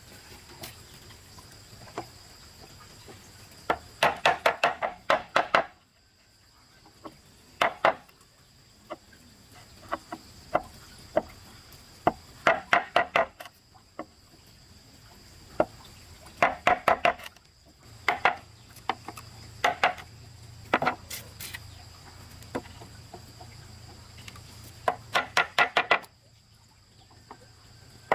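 Quick bursts of chopping strikes on wood, each burst a rapid run of about eight to ten knocks in little more than a second, with single knocks between bursts. A faint steady high-pitched drone runs underneath.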